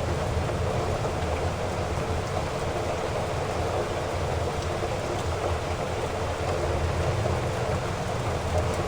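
Heavy rain falling steadily, an even unbroken rush with a deep low rumble beneath it.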